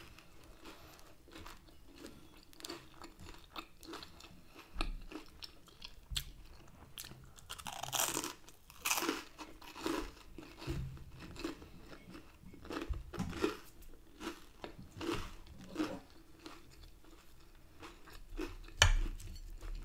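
A person chewing and crunching a meal of honey chicken, chips and garlic bread, in irregular bites and chews, with louder crunches about eight to nine seconds in, again around thirteen seconds, and near the end.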